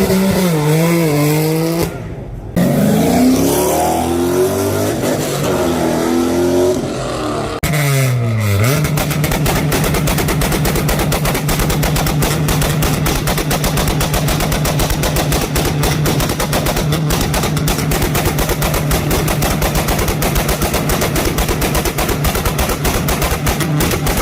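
Car engine revved hard up and down a few times. About nine seconds in it is held on a two-step launch-control rev limiter: a steady pitch chopped by rapid-fire popping and banging from the exhaust, for about fifteen seconds.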